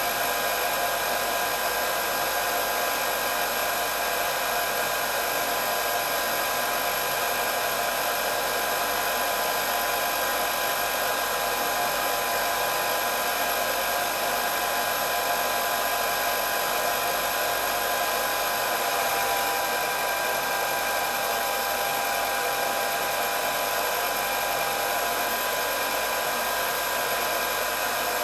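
Electric hair dryer running steadily: an even blowing hiss with a constant motor whine, no change in speed.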